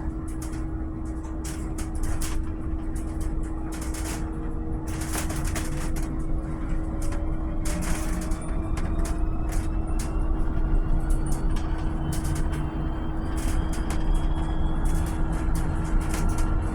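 Volvo BZL electric bus under way: its electric drive whines, rising slowly in pitch as the bus picks up speed, over a steady hum and low road rumble. Frequent short clicks and rattles are heard throughout.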